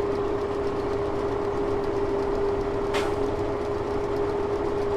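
A sugar beet truck's engine running steadily with its PTO engaged and the bed raised to dump, a steady whine held over the rumble. A single short click about three seconds in.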